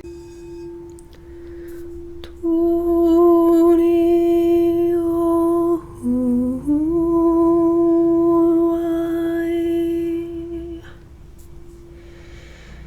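A woman hums long held notes at the same pitch as a ringing singing bowl. About six seconds in her voice drops to a lower note and slides back up, and after the humming stops the bowl's steady tone carries on alone.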